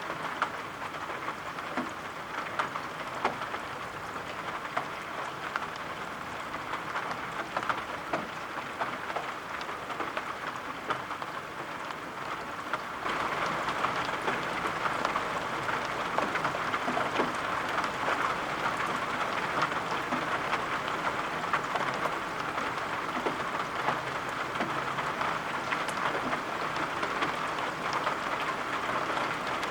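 Steady rain hissing, with many small drop taps throughout; it becomes louder suddenly about 13 seconds in.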